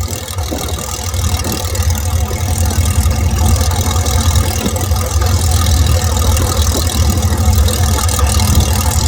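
Piston aircraft engines running on the ground, a steady low engine drone that grows slightly louder over the first few seconds as aircraft taxi.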